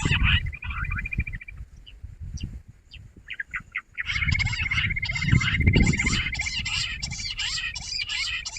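Jungle bush quail calling as a group: a dense chorus of short, overlapping chirping calls over a fast, steady, high trill. The chorus thins to a few scattered notes for a couple of seconds, then resumes at full density about four seconds in, with a low rumble underneath.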